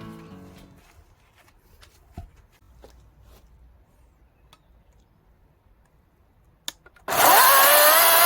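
Battery-powered chainsaw starting up about seven seconds in, its whine rising quickly and then holding steady as it cuts into mandarin orange wood. Before that, only a few faint clicks and knocks.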